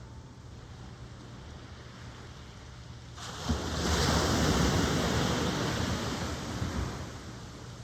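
Ocean wave breaking and washing in: a low steady surf rumble, then a loud rushing swell of white water from about three seconds in that fades away near the end.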